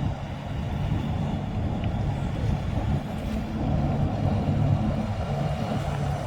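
Marine diesel engines running steadily under load, a low drone with propeller wash churning beneath it.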